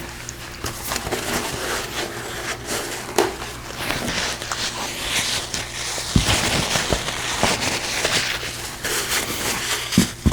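Close-miked eating of braised pork ribs: crackly chewing and rustling with many small clicks throughout.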